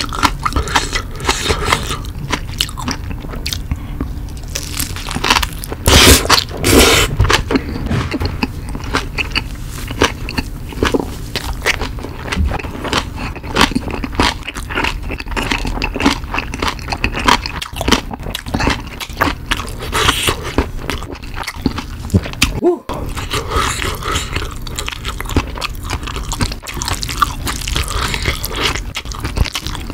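Close-miked eating: a bite into a frank sausage topped with spicy green onion kimchi, then steady chewing full of small mouth clicks. The loudest bites come about six to seven seconds in.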